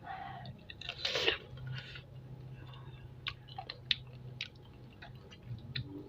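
Close-up eating of spicy chicken feet: chewing and biting, with a louder burst about a second in, then a run of short sharp wet clicks and smacks.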